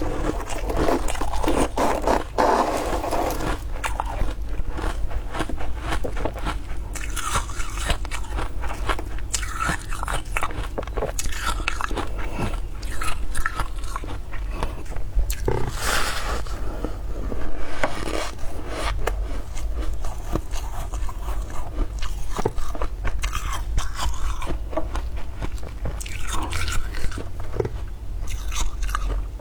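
Close-miked biting and chewing of scraped freezer frost: continuous crisp crunching, with some scraping strokes among the bites.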